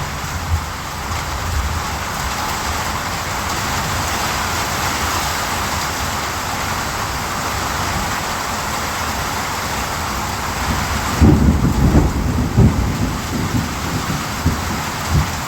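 Steady heavy rain, with a low rumble of thunder about eleven seconds in that lasts a couple of seconds, and a short one near the end.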